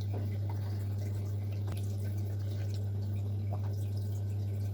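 A steady low hum, with a few faint small clicks or ticks over it.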